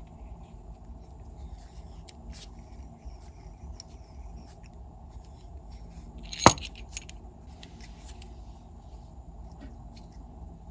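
A sharp metallic clink about six and a half seconds in, with a few faint small clicks of handling, over a steady low hum.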